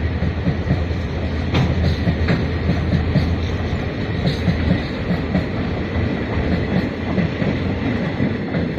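Freight train's wagons rolling past: empty flatcars, covered box wagons and a caboose. There is a steady low rumble, with the wheels clicking now and then over rail joints, and the sound begins to ease near the end as the caboose goes by.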